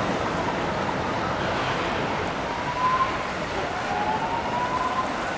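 Siren wailing, its pitch slowly rising and falling, over a steady rushing noise.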